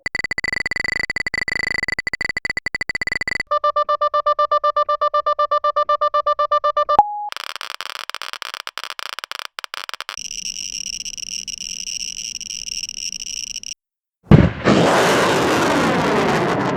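A run of separate synthetic alarm and warning tones: a high steady electronic beep, then a lower tone pulsing about eight times a second, a short blip, a buzzing tone, and a higher shrill tone over a low hum. About fourteen seconds in, a loud explosion bursts in and keeps rumbling.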